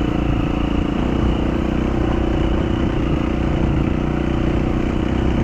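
Dual-sport motorcycle engine running steadily while riding a dirt trail.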